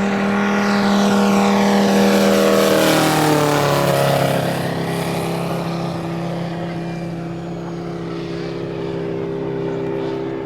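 Large scale model airplane's five-cylinder Valach R5-420 radial engine flying past. Its drone rises in loudness, drops in pitch about three to four seconds in as the plane passes, and then fades slowly as it moves away.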